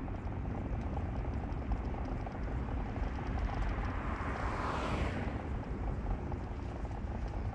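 Steady low rumble of a car's engine and tyres heard from inside the moving car, with a rushing noise that swells and fades about four to five seconds in.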